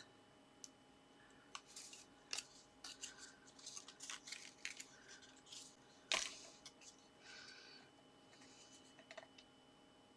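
Faint handling of paper and card: soft rustling and scraping with small taps, and one sharper tap about six seconds in.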